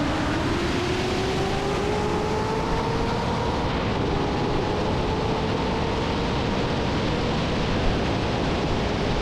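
Race car engine pulling hard at very high speed, nearly 200 mph, its pitch rising slowly for the first few seconds and then holding steady. Heavy wind and road noise sit under it throughout.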